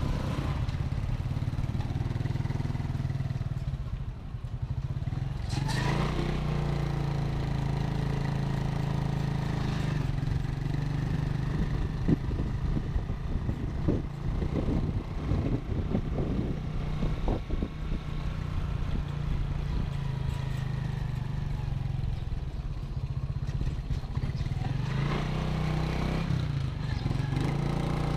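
Motorcycle engine running steadily while riding, with scattered clicks and knocks in the middle stretch.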